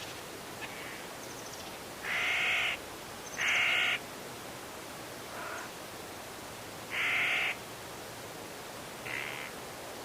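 Crow cawing: three loud, harsh caws, the first two about a second apart and the third a few seconds later, with two fainter calls between and after them. A steady hiss of wind in the trees runs underneath.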